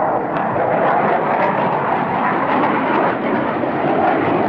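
Saab J35 Draken jet fighter in flight, its jet engine giving a loud, steady rushing noise.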